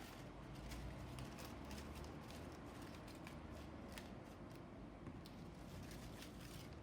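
Paper being handled: faint rustling with scattered light clicks, over a low hum.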